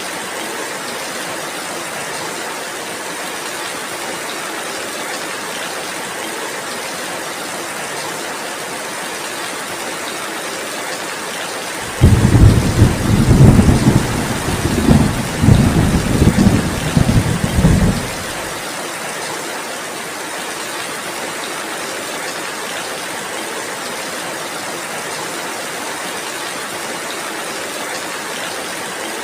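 Steady heavy rain hissing throughout. About twelve seconds in, a roll of thunder breaks in suddenly and rumbles in several surges for about six seconds before dying away.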